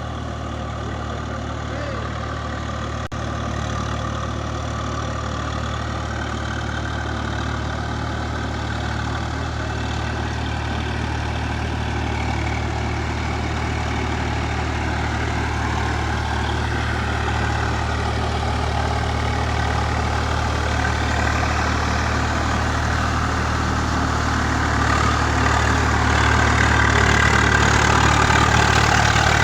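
Tractor engine running steadily, growing louder over the last few seconds.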